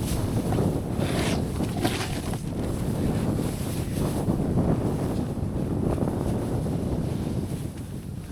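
Wind buffeting the microphone, a steady low rumble, with two brief higher hissing swishes about a second and two seconds in.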